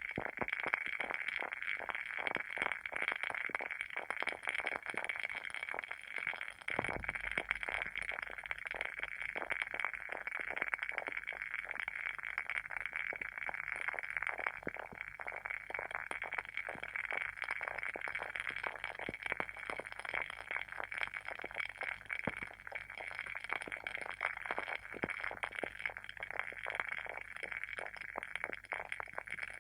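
Wooden-wick candle burning with a steady, dense crackle of many small irregular pops, the sound of the wooden wick crackling in the flame.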